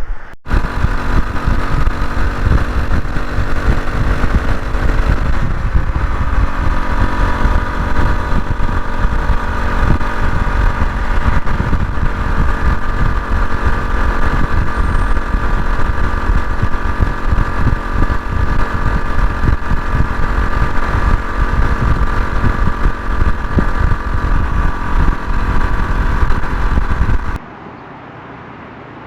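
Honda CT125 Hunter Cub's single-cylinder engine running steadily on the move, under heavy wind buffeting on the microphone. The engine note shifts about five seconds in, and the sound cuts to a much quieter background near the end.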